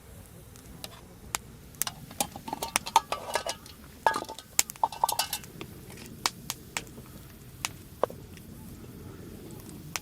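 Metal utensils clinking and tapping against cookware: scattered sharp clicks, with a busier run of ringing clinks from about two to five and a half seconds in.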